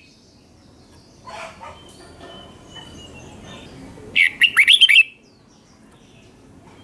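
Red-whiskered bulbul singing: one short, loud phrase of rapid rising and falling whistled notes about four seconds in, with fainter chirps and a thin whistle before it.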